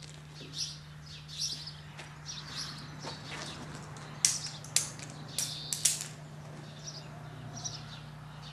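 Small birds chirping in short, separate calls, with a cluster of sharper, louder calls a little past the middle. A steady low hum runs underneath.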